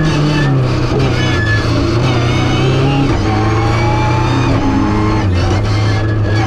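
Rally car engine heard from inside the cockpit, pulling hard under load; its note climbs and then drops about halfway through as the driver shifts up from second to third.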